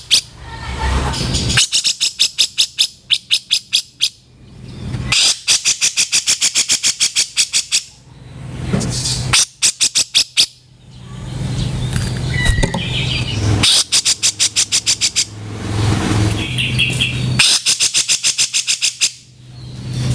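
Grey-cheeked bulbul (cucak jenggot) giving its harsh, rasping 'kasaran' chatter: rapid trains of about ten scratchy notes a second, each train lasting two to three seconds, repeated after short pauses.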